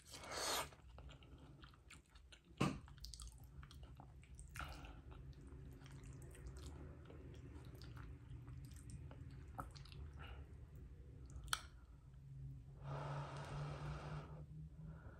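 Quiet, close chewing of soft, cheesy spaghetti squash strands, with a few sharp clicks of a metal fork. A louder stretch of mouth noise comes near the end.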